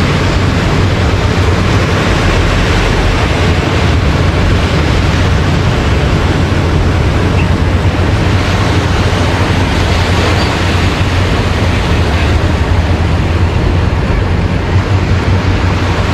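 Loud, steady wind rumbling on a GoPro's microphone, mixed with the wash of ocean surf.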